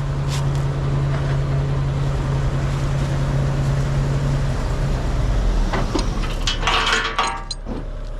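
Dump truck engine running steadily under load; its note drops lower about four and a half seconds in, and a rough, noisy stretch follows near the end.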